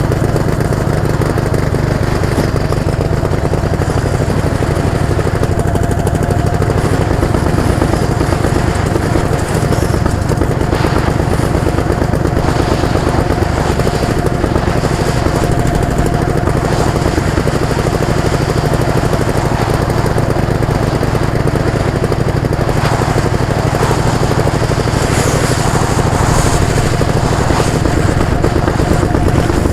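A motor vehicle's engine running steadily and loud, close to the microphone, with no change in speed.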